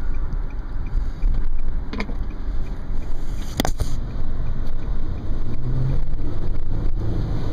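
Wind rushing in through the open sunroof of a 2010 Nissan Murano on the move, a steady low rumble with road noise. A sharp click or knock cuts through about two seconds in and again a little after three and a half seconds.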